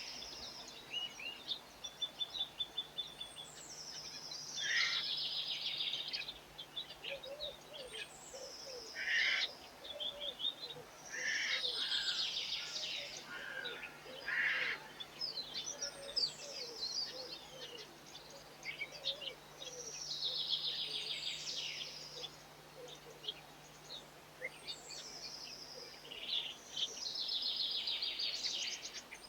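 Garden songbirds singing: one bird repeats the same short high phrase about every seven or eight seconds, with scattered chirps from other birds in between.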